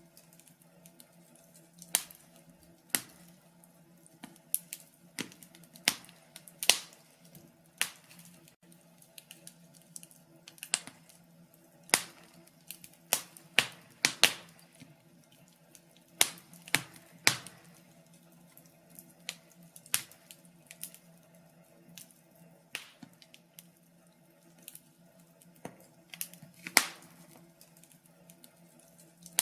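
Wood fire crackling in a fireplace: irregular sharp pops and snaps, roughly one a second and some much louder than others, over a faint steady low hum.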